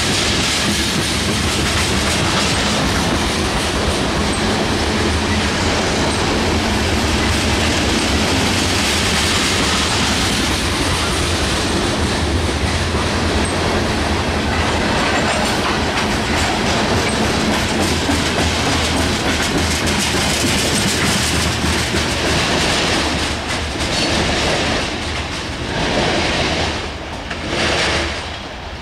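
Covered hopper cars of a freight train rolling past close by, a steady rumble with wheels clacking over the rail joints. The last cars go by in the final several seconds and the sound falls away in uneven swells.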